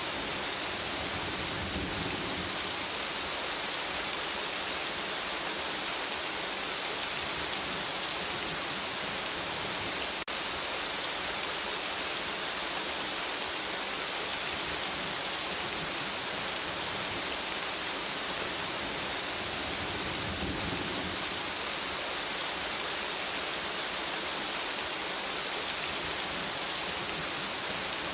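Steady rain falling in a forest: an even, continuous hiss of drops. A brief low rumble swells under it twice, near the start and about two-thirds of the way in.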